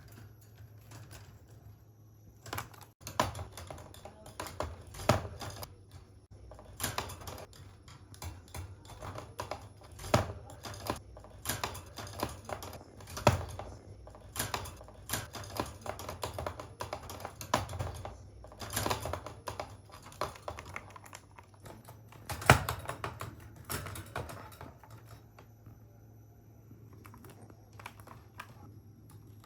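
Budgerigar clattering about in its cage: irregular quick clicks and taps, as from beak and claws on the cage bars and fittings. They start a couple of seconds in and die down near the end.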